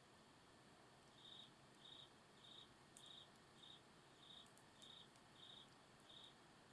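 Faint cricket chirping, short pulses repeated about every 0.6 s starting about a second in, with a few faint sharp crackles from the campfire.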